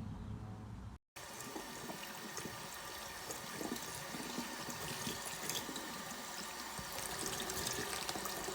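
Water running and splashing, with many small drips and ticks, after music that cuts off about a second in.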